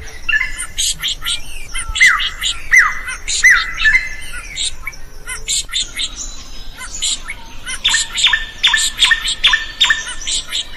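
Drongo singing: short notes that slide down in pitch, mixed with harsh, clicking chatter. Near the end it gives a quick run of short, level whistled notes.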